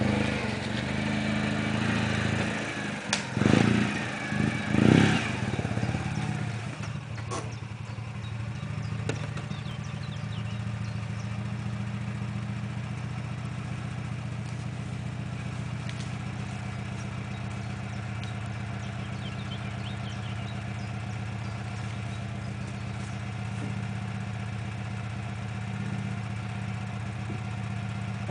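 Citroën Visa's air-cooled flat-twin engine running, louder with a few short bursts in the first six seconds, then idling steadily.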